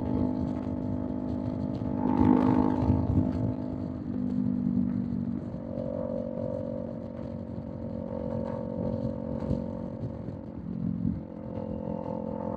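Kawasaki Z400's parallel-twin engine through an aftermarket Villain M1 exhaust, running steadily at cruising speed, briefly louder about two seconds in, over wind and road noise.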